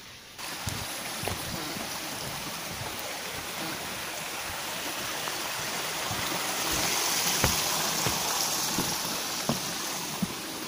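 Steady rain on foliage and a wet wooden boardwalk: an even hiss that starts suddenly about half a second in, with scattered low knocks of footsteps on the boards.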